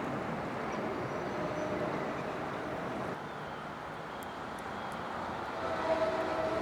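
Train approaching along the line: a steady rumble that grows louder over the last second or so, with a humming tone coming up as it nears.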